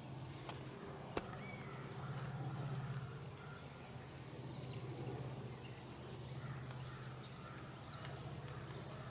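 Scattered short bird chirps over a steady low rumble, with one sharp click about a second in.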